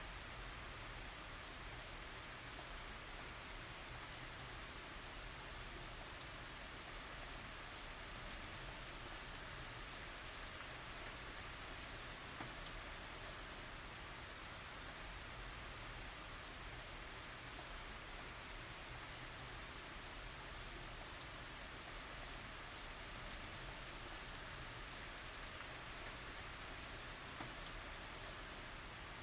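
Steady rain falling onto surfaces, an even hiss with faint scattered drop ticks and no thunder.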